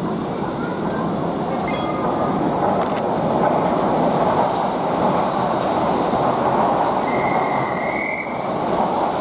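Train running on the rails, a dense rumble and hiss that grows louder about three seconds in, with a short wheel squeal about seven seconds in.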